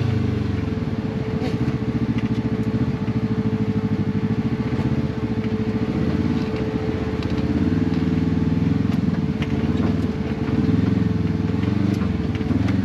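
Side-by-side UTV engine running at low trail speed, its pitch rising and falling with the throttle. A steady whine sits under it, with a few light knocks.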